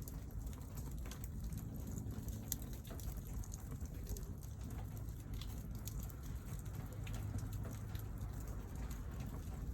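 Wood fire crackling, with scattered small sharp pops over a low steady rumble.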